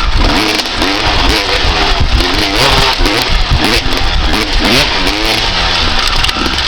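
1995 Honda CR250R single-cylinder two-stroke engine revving hard and easing off over and over, with quick rising and falling pitch sweeps as the throttle is worked while riding.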